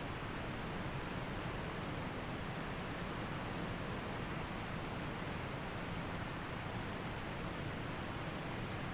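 Waterfall and mountain creek water rushing in a steady, unbroken noise.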